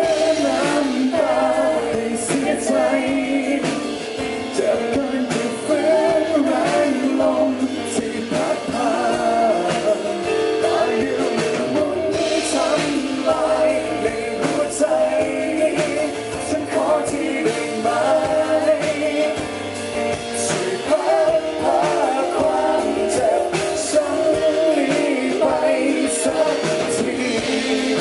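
Rock band music with a wavering lead melody over guitar and drum kit, with cymbal strikes throughout.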